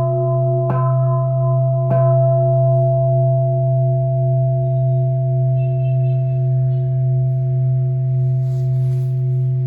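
Large 40 cm Taiwanese bronze bowl bell struck twice within the first two seconds, then left to ring on with a deep steady hum and higher overtones.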